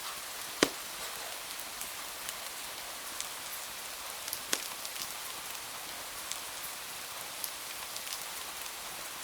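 Steady rain hiss with scattered sharp ticks and pops: one loud pop under a second in and another about four and a half seconds in.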